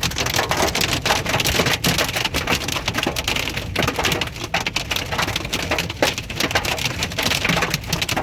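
Hail and heavy rain pelting a vehicle's roof and windows, heard from inside the vehicle: a loud, dense, continuous clatter of hard impacts.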